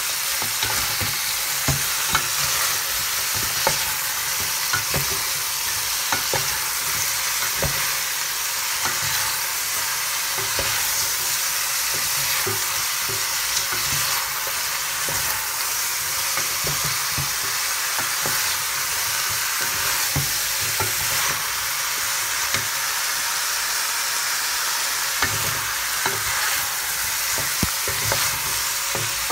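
Chicken feet sizzling as they fry in oil in a metal pot, a steady hiss, with scattered clicks and knocks of a utensil stirring them against the pot.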